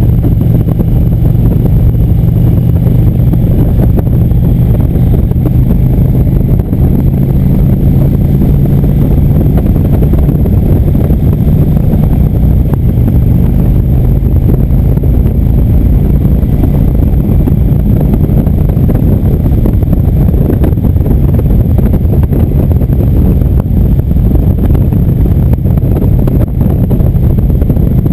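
Indian motorcycle engine running steadily at cruising speed on the open road, its pitch holding nearly constant.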